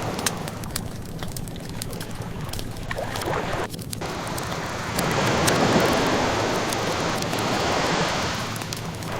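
Ocean waves washing in, one swell building about five seconds in and easing off, with a wood fire crackling in sharp scattered pops over it.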